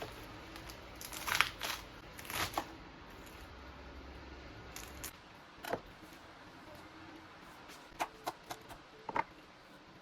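Short crinkling and rustling sounds of something being handled, in small clusters: two pairs early, one near the middle, and a quick run of four near the end.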